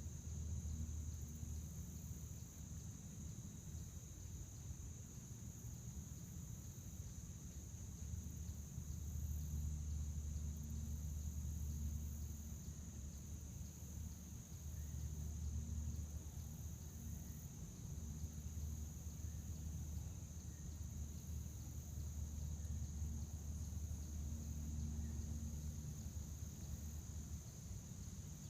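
A chorus of crickets trilling in a steady, unbroken high-pitched drone. Beneath it runs a low rumble that swells and fades every few seconds.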